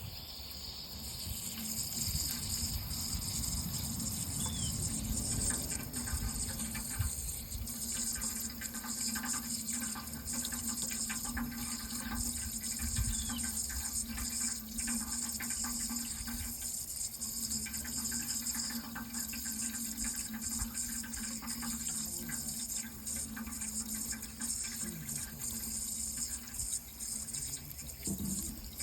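Water running in a steady, continuous flow.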